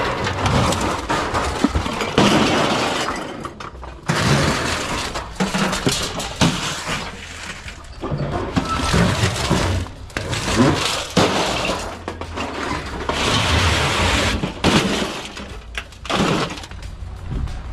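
Pieces of scrap metal being thrown down onto a pile, making a string of irregular clattering crashes.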